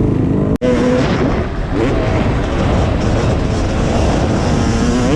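Dirt bike engine running and revving, its pitch rising and falling, with a momentary dropout about half a second in.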